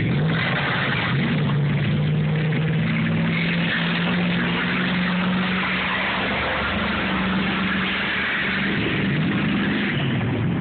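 Truck engine running steadily under load, its hum holding an even pitch, under a constant rushing hiss.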